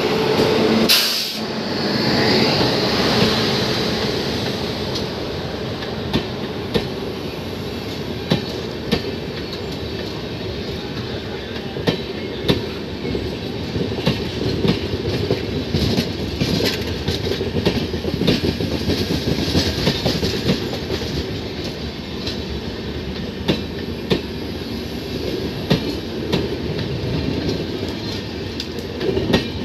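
Hemkunt Express passing at departure speed, first the electric locomotive's bogies and then its LHB coaches: a steady rumble of steel wheels on rail with irregular sharp clacks as the wheels cross rail joints, and one loud clank about a second in.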